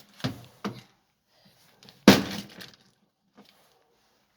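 Sledgehammer blows smashing an old dishwasher: a few cracking hits in the first second, then the loudest, hardest hit about two seconds in, followed by breaking and rattling of broken parts.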